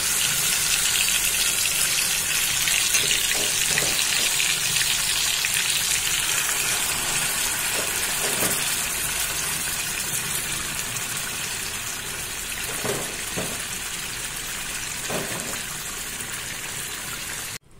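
Curd-and-green-masala-marinated chicken pieces sizzling in hot oil in a kadai, just after going into the pan: a loud, steady sizzle that slowly dies down as the wet marinade cooks off, then cuts off suddenly near the end.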